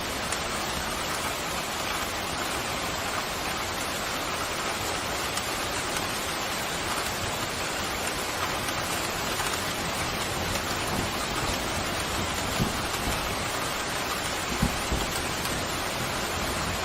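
Steady pouring rain hissing evenly, with a few brief low thumps in the second half.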